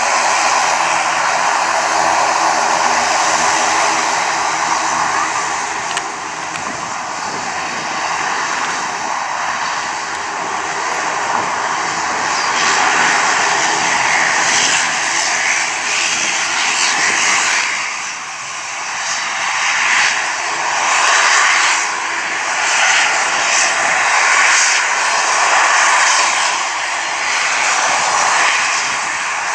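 Airliner engines running close by: a hum of several steady tones under a rushing noise, the hum fading after the first few seconds and the rush swelling and ebbing in the second half.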